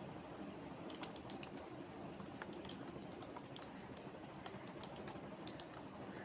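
Typing on a computer keyboard: irregular key clicks in quick runs, starting about a second in, over a faint steady background noise.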